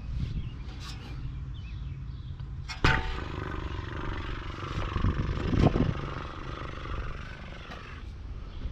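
A sharp metal clang that rings briefly about three seconds in, followed by several seconds of rattling and scraping of sheet-metal parts as an air-conditioner unit is taken apart, with another loud knock partway through.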